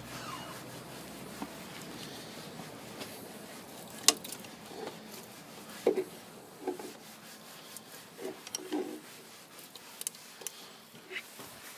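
Scattered knocks, clinks and rubbing of hand tools and engine parts being handled while an engine's cylinder head is dismantled. The sharpest knocks come about four and six seconds in.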